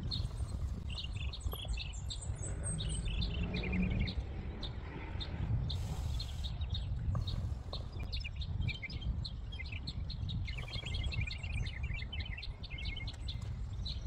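Small birds chirping in quick, repeated short notes, over a steady low rumble.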